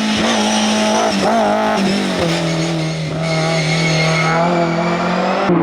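Rally car engine held at high revs as the car slides through a corner, with tyres squealing. The engine note wavers briefly about a second in, then holds steady, and the sound changes abruptly near the end.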